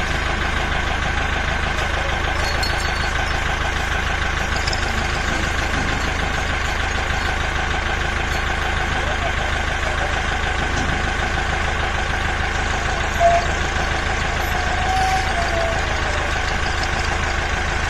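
Tractor engine running steadily at an even speed, with a brief louder moment about thirteen seconds in.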